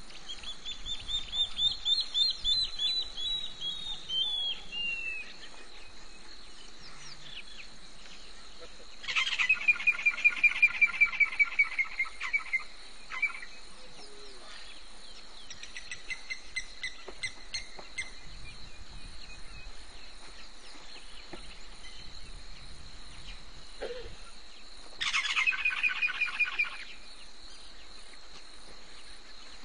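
Wild birds calling: a string of whistled notes in the first few seconds, then a rapid call of about a dozen pulsed notes lasting some three seconds, the loudest sound, about nine seconds in. A fainter series follows around sixteen seconds, and a shorter pulsed call comes near twenty-five seconds.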